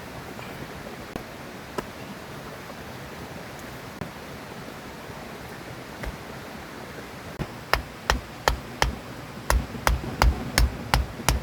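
Steady rush of a river, with rhythmic chopping starting after about seven seconds: a knife striking a cutting board about two or three times a second.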